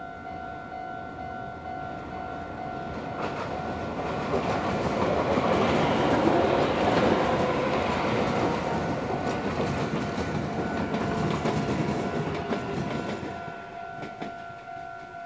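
Meitetsu 3150 series and 3500 series electric train crossing a steel truss railway bridge: the rumble of the train and the clickety-clack of its wheels build to a peak about halfway through, then fade. A steady high two-note tone sounds underneath and is covered while the train is loudest.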